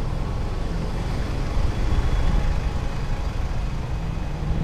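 Motorcycle engine running with steady low road rumble while riding through city traffic.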